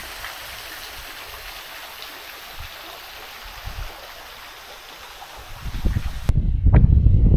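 Stream water running steadily. About six seconds in, the sound cuts abruptly to gusty wind buffeting the microphone.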